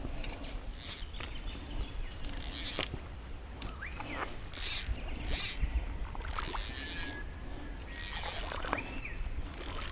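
Lakeside nature ambience: a high insect buzz that swells and fades, a few short bird calls that slide in pitch, and low wind rumble on the microphone.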